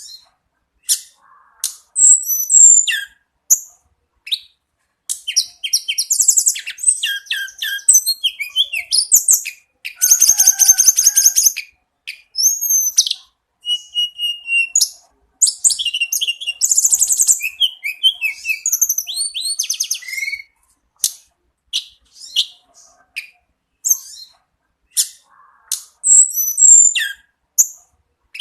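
A tledekan gunung songbird singing in high-pitched, varied phrases: rapid trills, buzzy runs and clear whistled notes, with scattered single chips at the start and end and a dense run of song in the middle.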